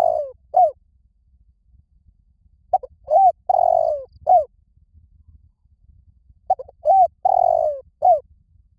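A spotted dove cooing: repeated phrases of a short note, a rising-falling coo, a longer coo that falls, and a short final note. A phrase is just ending at the start, and two full phrases follow a few seconds apart.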